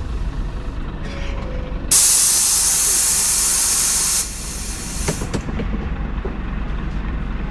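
Scania CN113CLB city bus idling with a steady low rumble. About two seconds in, its air system lets out a loud hiss of compressed air that lasts about two seconds and cuts off, followed by a few short clicks.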